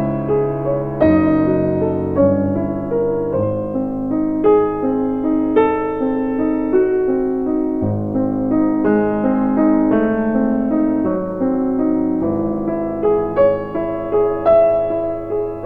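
Background music: a piano playing a slow run of notes that ring and fade, several sounding together.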